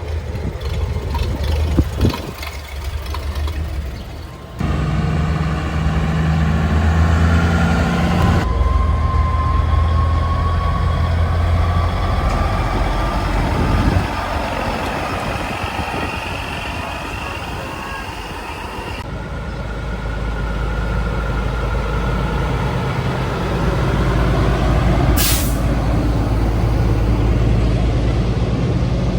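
Vintage truck engines running as trucks move off, one with a whine that rises in pitch as it pulls away. A short sharp air-brake hiss comes about 25 seconds in.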